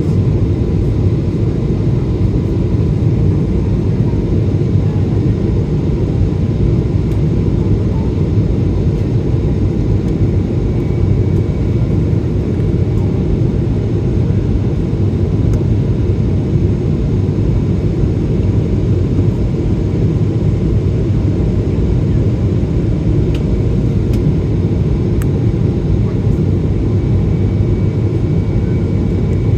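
Steady cabin roar of a Boeing 777-300 in flight, the Rolls-Royce engines and the rush of air along the fuselage heard from inside the cabin as an even, deep rumble.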